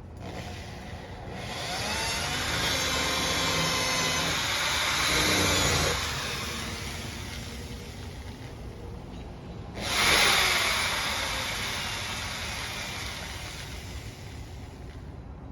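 Two motor vehicles passing one after the other. The first swells up over a few seconds and drops away, and the second comes in suddenly about two-thirds of the way through and slowly fades.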